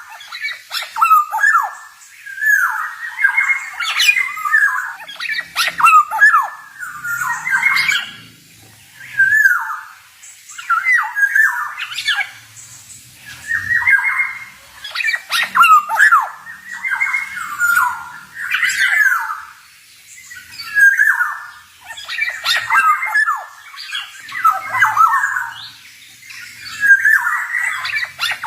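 Male black-naped oriole (kepodang) singing and calling in a long series of short loud phrases, about one every two seconds, mixing whistled notes with harsh squawking ones.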